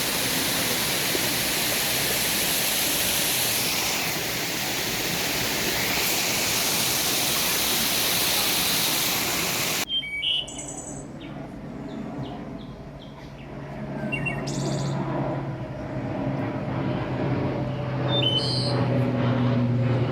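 Waterfall rushing in a steady roar for about ten seconds, then a sudden cut to birds chirping in short calls over a low steady hum that grows louder near the end.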